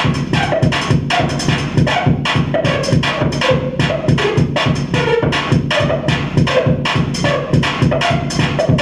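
Loud live electronic noise music: dense, distorted pulses repeating several times a second over a steady low hum.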